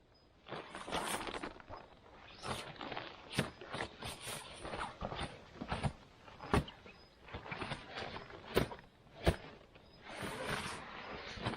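Footsteps crunching and rustling through dry forest-floor litter, a step roughly every second, with a few sharp snaps of twigs breaking underfoot.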